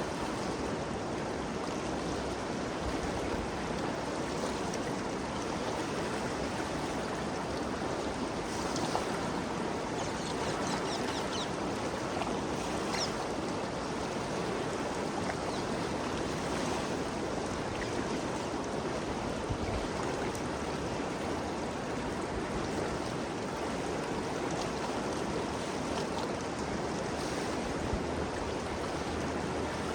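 Ganges River flowing fast over rocks: a steady, full rush of moving water, with a few faint splashes breaking through around a third of the way in.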